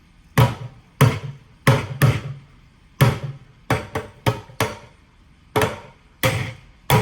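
Buckets played as drums with sticks: about a dozen sharp hits in an uneven rhythm, each with a short ring, including a quick run of four hits in the middle.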